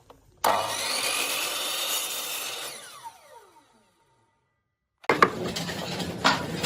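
Power woodworking tool, most likely a saw, starts suddenly and cuts wood, then winds down with a falling whine after about two seconds. After a short gap, more machining noise on wood with several sharp knocks.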